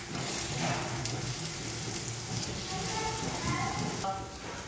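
Banana slices sizzling steadily as they fry in ghee in a pan.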